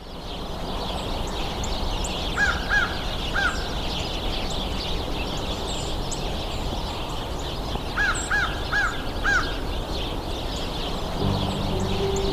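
Wild birds calling in a winter field recording: a dense chatter of short high chips and twitters from many birds, with one bird twice giving a series of three or four clear, arched calls. Soft music begins near the end.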